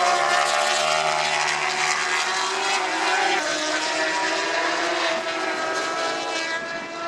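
Racing motorcycle engines running at high revs, a steady mix of overlapping engine notes that shifts slightly about halfway through.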